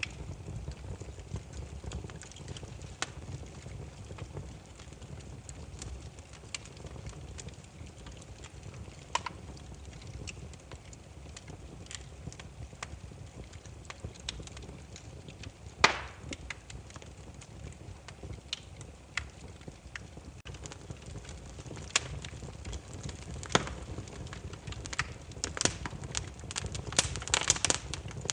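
Firewood burning in an open fire, crackling: irregular sharp pops and snaps over a low steady rumble of the flames. One louder pop comes about halfway, and the pops come thicker near the end.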